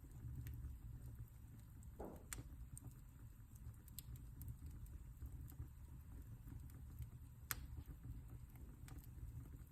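Wood fire burning in a fireplace: a low, steady rumble of flames with sparse, irregular crackles and pops. The loudest pop comes about seven and a half seconds in.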